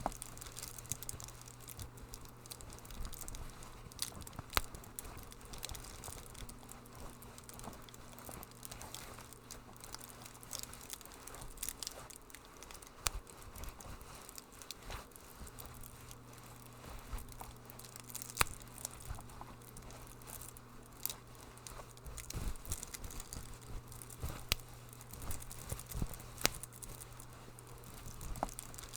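Wood fire in a fireplace crackling, with irregular sharp pops and snaps over a soft hiss. A steady low hum sits underneath and drops out for a few seconds near the middle.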